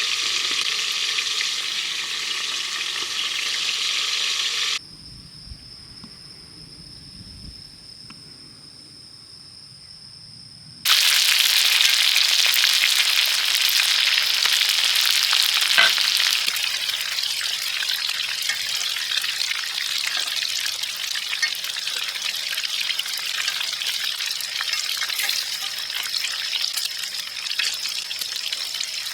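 Food sizzling and frying on a hot griddle, broken about five seconds in by a quieter stretch of some six seconds with steady high-pitched tones, before the loud sizzling resumes.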